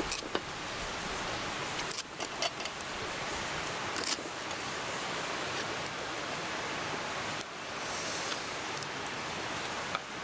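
Steady rushing of a mountain stream, with a few short sharp clicks and taps from cutting grilled chicken on a board.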